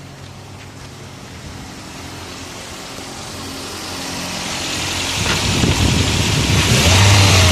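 Toyota Echo's four-cylinder petrol engine, which has a cylinder-misfire fault, idling steadily, then growing louder and revving up and down near the end.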